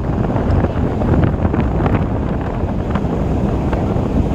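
Steady rumble of a moving EMU local train with wind buffeting the microphone, and scattered sharp clicks.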